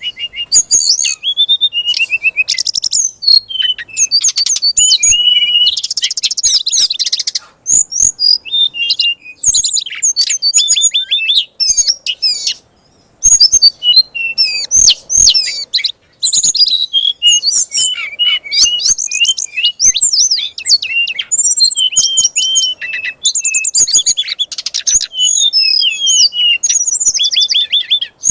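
A songbird singing a fast, varied 'fighter' song of rapid chirps, whistles and trills, the kind of aggressive song played to provoke oriental magpie-robins. It breaks off briefly about halfway through.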